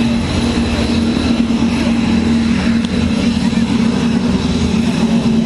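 Propeller airplane engine running with a steady, loud drone.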